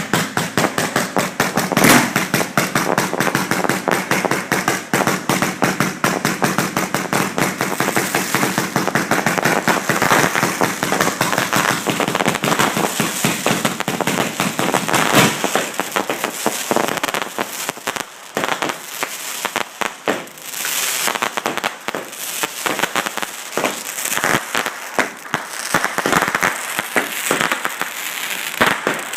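Fireworks going off at close range: a dense, continuous barrage of sharp bangs and crackling. The heavier booms are in the first half, giving way to mostly crackling pops after about the midpoint.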